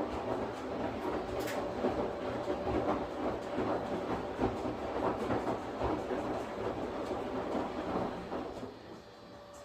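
Washing machine running its drum, a dense, uneven churning noise with low thumps, which dies down near the end to a quieter hum with a thin steady tone.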